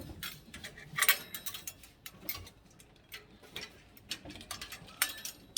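Irregular light clicks and knocks from small objects being handled, with a louder clatter about a second in.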